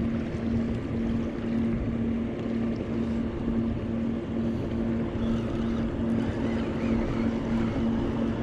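Motorboat engine running steadily with an even, slightly pulsing drone, over wind noise.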